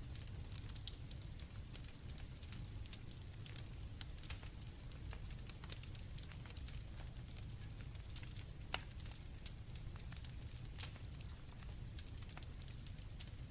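Night campfire crackling with scattered sharp pops, one louder pop about nine seconds in, over a low rumble, with crickets singing a steady high-pitched trill.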